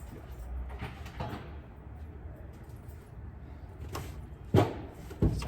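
Metal parts knocking and clunking as engine components are worked loose and lowered, with a few light knocks and two sharp, loud clunks near the end, over a low steady hum.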